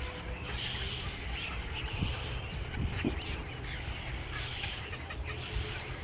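Many birds calling together, a busy overlapping chatter of short calls, over a steady low rumble.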